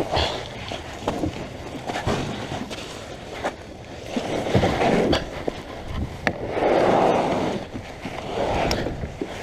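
A kayak on the move: a swishing rush about every two seconds, loudest around the middle, with scattered knocks and clicks against the hull.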